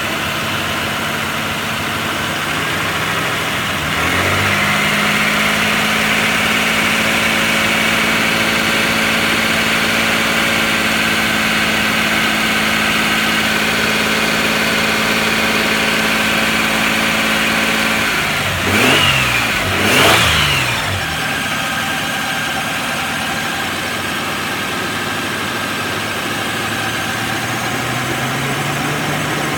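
1995 Nissan Pathfinder's 3.0-litre V6 engine running: it idles, is raised to a higher steady speed about four seconds in and held there, then gets two quick revs near the middle before dropping back to idle.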